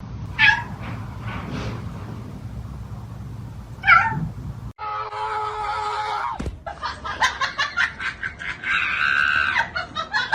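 A cat meowing twice, short calls falling in pitch, about half a second in and again about four seconds in. Then an abrupt switch to a different sound: a steady run of even tones, followed by a quick series of clicks mixed with tonal sounds.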